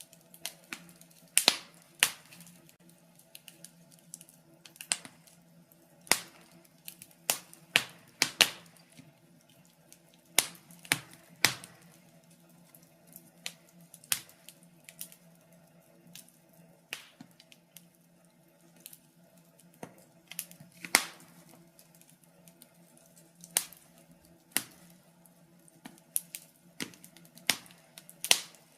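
Wood fire crackling: irregular sharp pops and snaps, some loud and some faint, a few each second, over a faint steady low background.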